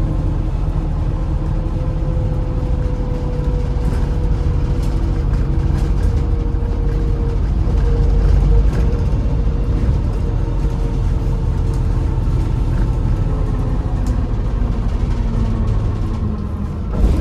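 MAZ-203 city bus driving, heard from inside the passenger cabin: steady engine and road rumble, with a whine that slowly drops in pitch over the first half.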